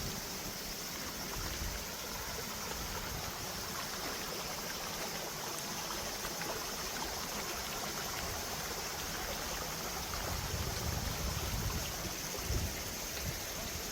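Mountain valley stream flowing, a steady rush of water. Low rumbling and a brief thump join in during the last few seconds.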